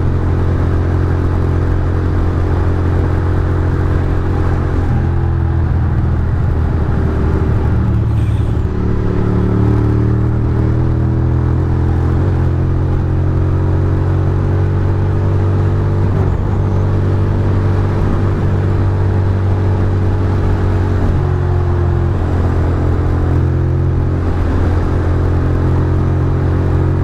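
Ducati Monster's V-twin engine running hard on an open straight, its pitch stepping and bending several times with throttle and gear changes, under a steady rush of wind and road noise.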